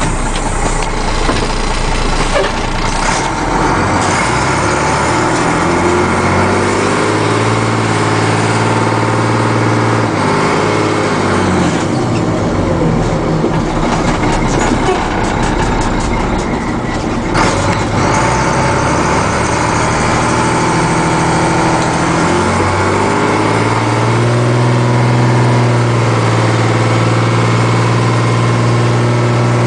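Ford F800's six-cylinder diesel engine pulling the truck along under load. The engine note climbs, drops about 11 and 22 seconds in, then climbs and holds steady.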